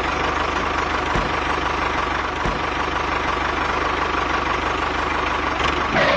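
Small engine of a homemade mini tractor running steadily at idle, with a fast even firing beat.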